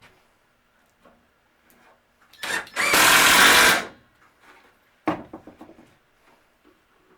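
Handheld power drill running in one short burst of about a second, then a single sharp knock with a brief rattle.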